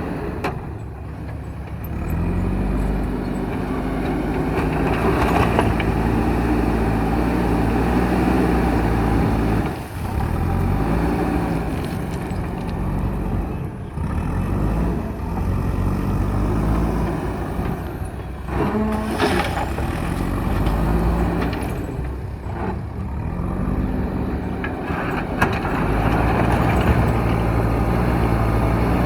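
JCB backhoe loader's diesel engine working under hydraulic load, its note rising and falling again and again as the machine digs and loads gravel. A short, louder rattling spell comes about two-thirds of the way through.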